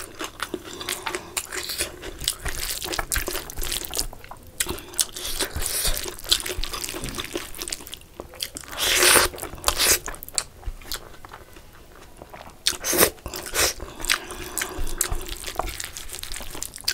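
Close-miked chewing and wet mouth sounds of eating chicken curry and rice by hand: a steady run of smacks and clicks, with a louder stretch about nine seconds in.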